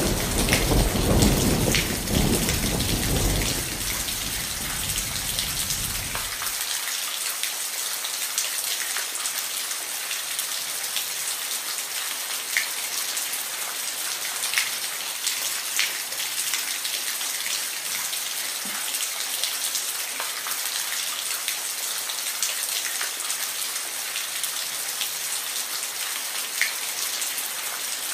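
Steady rain hissing, with scattered individual drops ticking. A low roll of thunder is dying away in the first six seconds or so.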